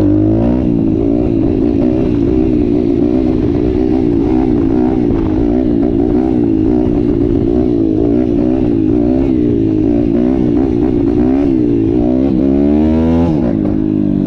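RFN Apollo 140cc pit bike's single-cylinder YX engine running hard through its aluminium sports exhaust while being ridden, held in second gear, its pitch wavering up and down with the throttle. About twelve seconds in it climbs sharply, then drops off near the end: it is being revved out in second when it needed a shift into third.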